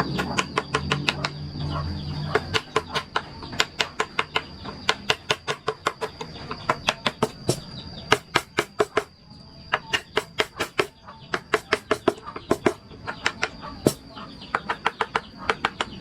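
Wooden mallet tapping a carving chisel into wood in quick, uneven runs of sharp knocks, several a second, with short pauses between runs.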